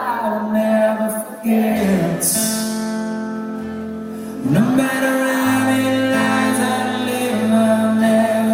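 A slow rock song with held chords over a low sustained bass and a voice singing long notes. About four and a half seconds in, the voice slides up into a long held note.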